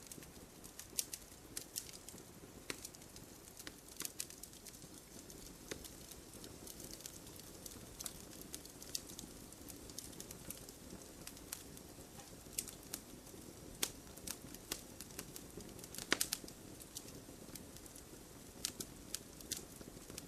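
Campfire wood burning: irregular sharp crackles and pops over a soft, steady rush of flame, with a quick run of louder pops about sixteen seconds in.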